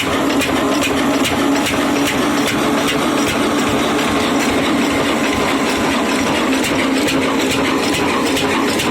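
Old 20 HP stationary diesel engine running steadily under load, driving a small flour mill, with an even, regular beat of firing strokes over a constant hum.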